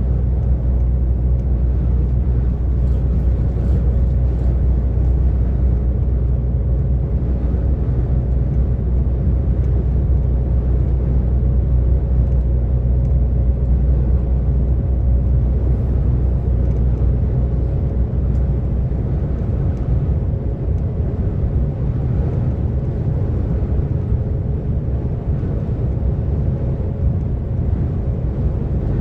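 DAF XF 460 truck's PACCAR MX-13 straight-six diesel running steadily at motorway speed, a deep rumble with a faint steady hum over it; the deepest part of the rumble eases off about two-thirds of the way through.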